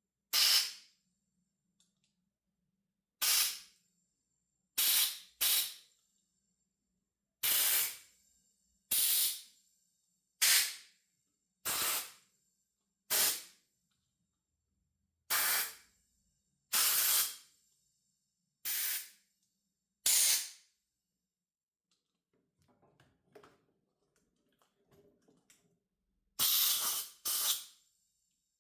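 Short blasts from a compressed-air blow gun, about fifteen of them a second or two apart, blowing out and drying ultrasonically cleaned carburetor parts. Near the end the blasts pause for a few seconds, with faint clicking of parts being handled, then two more blasts follow.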